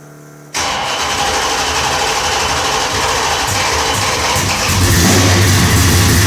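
1970 Dodge Charger's big-block V8, a 440 bored and stroked to 500 cubic inches, cold-starting: after a faint steady hum it fires suddenly about half a second in and keeps running, getting louder with a deeper rumble about five seconds in.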